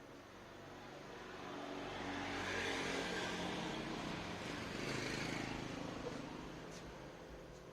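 A motor vehicle's engine passing by, growing louder over the first few seconds, peaking near the middle and fading away toward the end.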